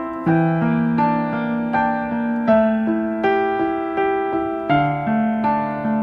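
Background piano music: a slow, gentle melody of held notes, a new note or chord struck roughly every second.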